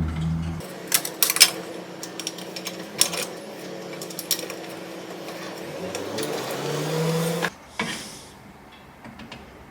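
A small motor running with scattered clicks and knocks; its pitch rises around six to seven seconds in, then it cuts off suddenly.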